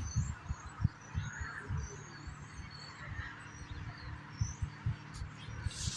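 Soft, irregular low knocks and bumps from handling, with birds chirping faintly in the background.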